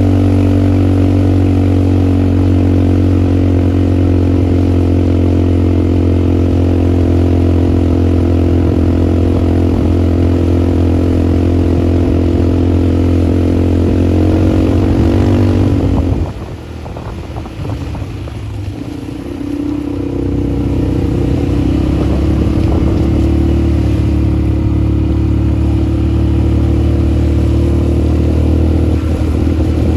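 ATV engine running at steady revs, easing off suddenly about halfway through, then picking up again and holding a steady, lower pitch.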